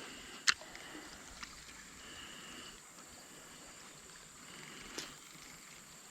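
Steady high-pitched insect drone, with a sharp click about half a second in and a fainter click near the end.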